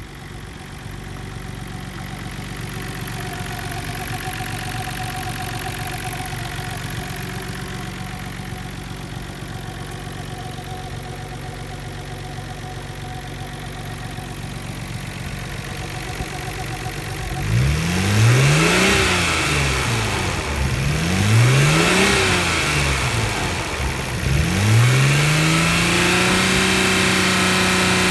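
R32 Nissan Skyline GT-R's RB26DETT twin-turbo straight-six idling steadily. About two-thirds of the way in it is blipped up and down twice. A third rev is then held at a steady raised speed to the end.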